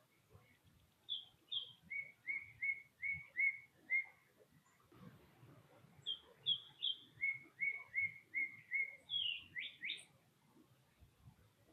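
A songbird singing a phrase of two higher notes followed by a run of about six evenly spaced lower notes. The phrase is repeated twice, with a few quick rising notes near the end.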